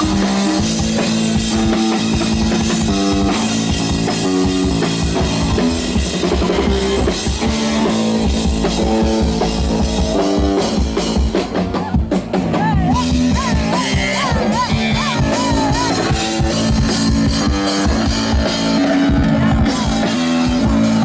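Live band music: a drum kit keeping a steady rock beat under synthesizer chords and bass. About halfway through the music thins out for a moment, then a wavering, bending lead line comes in over the groove.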